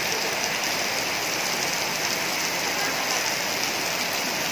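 Heavy rain pouring steadily onto brick paving.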